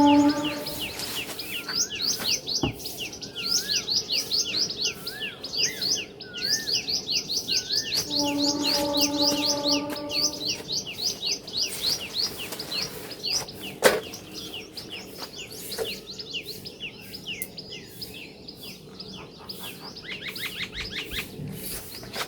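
Birds chirping in long, fast runs of short falling notes, about five or six a second, with a wavy whistled call a few seconds in. About eight seconds in, a steady pitched tone sounds for about two seconds, and there are two sharp knocks, the louder about two-thirds of the way through.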